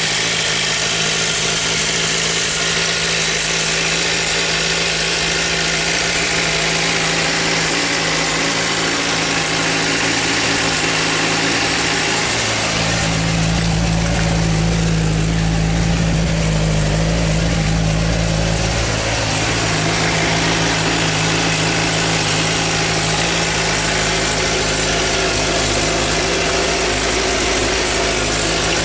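Suzuki GSR600 inline-four engine idling steadily with a ticking noise; its low hum grows stronger for several seconds around the middle while the pitch stays the same. The owner is unsure whether the tick means a failing cam chain tensioner, valves needing shim adjustment, or is just normal for the engine.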